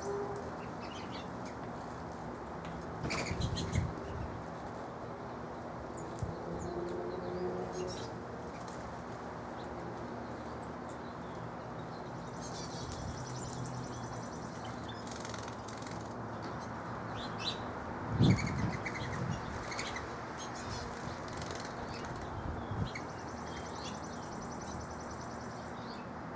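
Small backyard birds flapping their wings in a few short bursts, with a brief high chirp about halfway through, over a steady low background hum.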